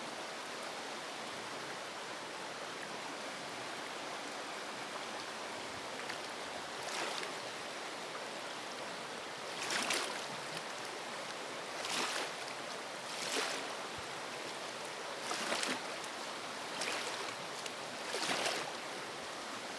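River water rushing steadily. From about a third of the way in, seven short louder surges of noise break in every second or two.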